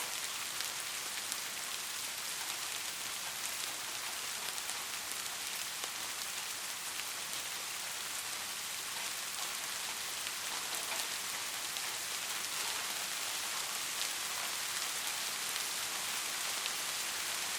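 Steady rain falling, with many small ticks of individual drops striking a surface.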